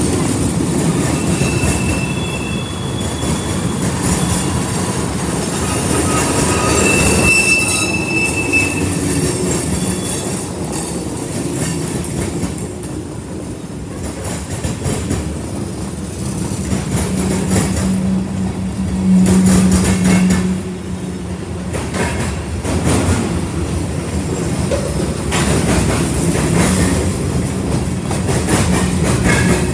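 Freight train cars rolling past: a steady rumble of steel wheels with clickety-clack over rail joints. Brief high wheel squeals come about two seconds in and again about seven seconds in, and a louder low hum swells for a few seconds past the middle.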